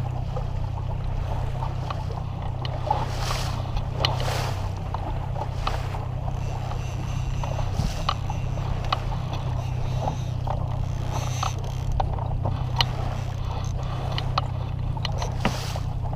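A boat's motor running at a steady pitch, a low hum, with water slapping and splashing against the hull in short irregular hits.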